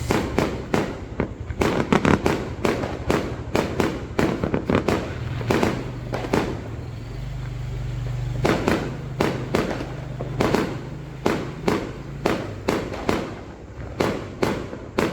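Fireworks going off in rapid, irregular succession: many sharp bangs, each with a short echo. There is a brief lull about seven seconds in, where a low steady hum is heard, before the bangs pick up again.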